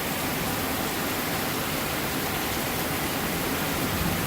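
Rain falling steadily during a thunderstorm, an even, unbroken hiss.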